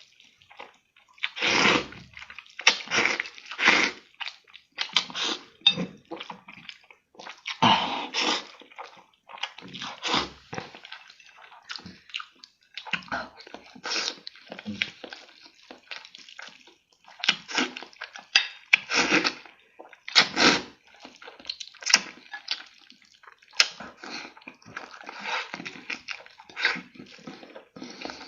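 Close-miked, wet slurping and chewing of spicy instant noodles, coming in irregular bursts every second or two.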